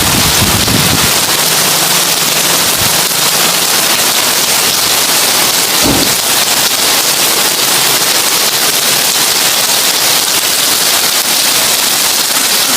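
Heavy rain pouring steadily on a tin roof, with a brief low rumble right at the start and another short low thump about six seconds in.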